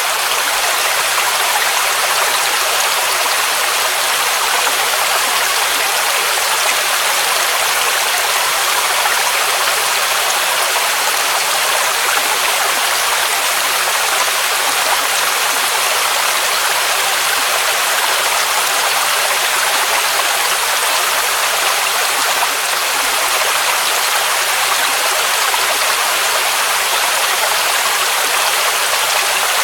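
Waterfall rushing water, a steady, unchanging noise weighted toward the higher pitches with little low rumble.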